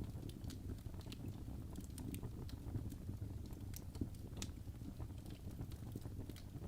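Birch logs burning in a fireplace: irregular sharp crackles and pops over the low rumble of the flames.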